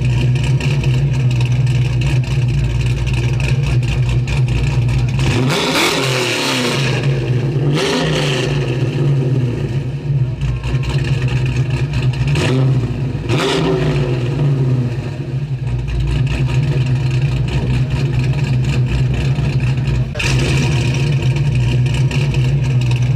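A 2013 Ford Shelby GT350's V8 idles steadily. It is revved briefly and falls back to idle about four times in the first fourteen seconds.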